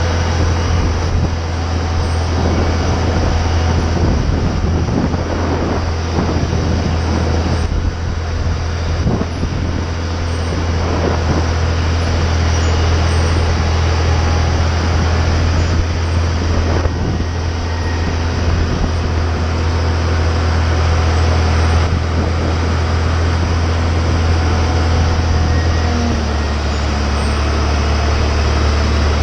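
Airport ramp machinery running with a steady low drone and hum, its pitch dropping slightly near the end.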